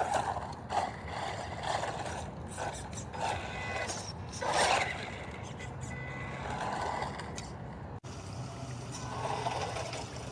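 Electric 1:14 scale RC truck being driven, its motor and tyres swelling and easing in uneven bursts of throttle, with a sudden cut about eight seconds in.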